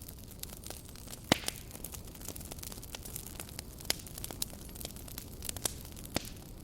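Campfire crackling: irregular sharp pops and snaps of burning wood over a low steady hiss, the loudest pop just over a second in.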